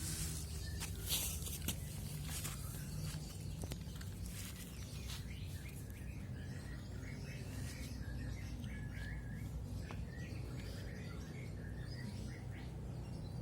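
Steady low background rumble with scattered light clicks and faint short bird-like chirps.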